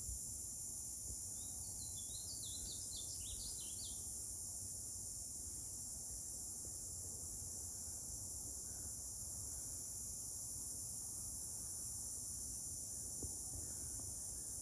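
Steady, high-pitched chorus of insects in summer woodland, with a bird chirping a quick series of notes about two to four seconds in, over a low rumble of wind on the microphone.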